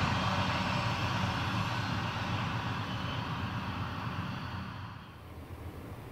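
A ballast train of hopper wagons hauled by Alco diesel locomotives moving away: a steady low rumble and engine drone that fades, then drops to a faint background about five seconds in.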